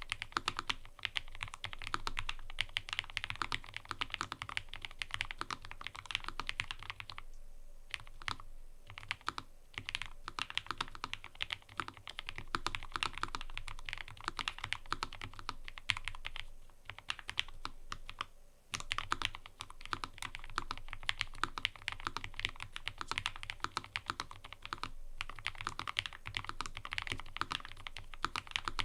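Fast typing on a mechanical keyboard: rapid runs of key clicks and clacks, broken by a few brief pauses.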